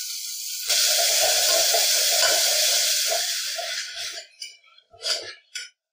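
Tomato pieces sizzling in hot oil with shallots and chillies in an aluminium pressure cooker as they are sautéed: a loud, steady sizzle that swells about a second in and dies down after about four seconds, then two short clatters from the pot near the end.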